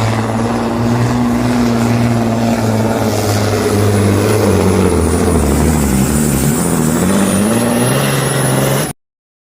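Heavy truck-pulling engine of a supersport pulling truck running loud, with a thin high whistle above it; the engine pitch dips and wavers in the second half. The sound cuts off suddenly near the end.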